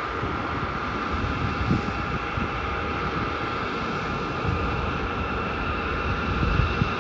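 Airliner jet engines running at a distance, a steady high whine over a low rumble.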